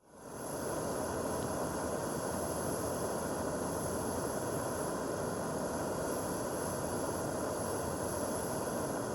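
Backpacking gas canister stove burner hissing steadily at full flame.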